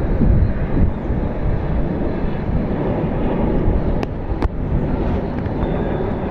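Jet noise from an Embraer E195-E2's geared turbofans: a steady, loud rush with most of its weight low down. Two short sharp clicks come about four seconds in.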